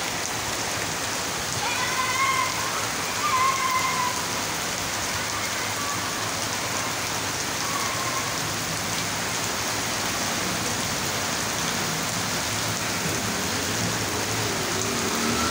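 Heavy rain pouring steadily onto a wet street, an even, unbroken hiss. Near the end a motorcycle engine passes.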